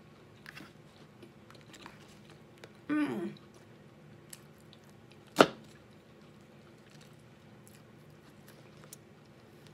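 Quiet chewing and small mouth clicks while eating chicken pot pie, with a short hummed 'mm' falling in pitch about three seconds in. About five and a half seconds in comes one sharp clink of a metal fork against the aluminium foil pie tin.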